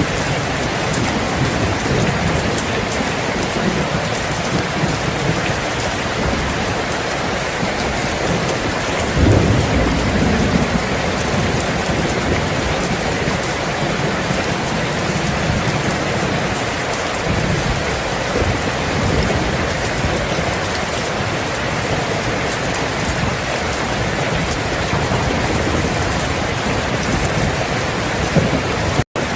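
Steady heavy rain with low rolls of thunder underneath, the strongest swelling about nine seconds in. The sound cuts out for an instant just before the end.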